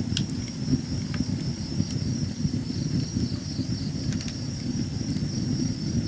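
Crickets or other insects trilling steadily, high-pitched, under a loud low rough noise of unknown source that continues throughout.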